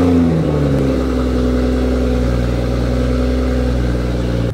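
A Toyota Supra's engine just after a cold start: the start-up flare dies away during the first second, and the engine then settles into a steady fast idle.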